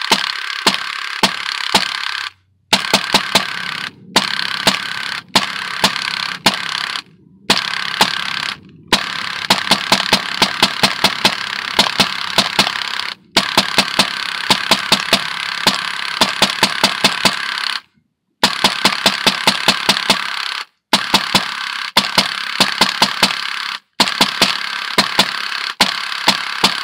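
Drozd CO2 BB pistol firing rapid bursts of sharp shots, several in quick succession, with short breaks between bursts, over background music.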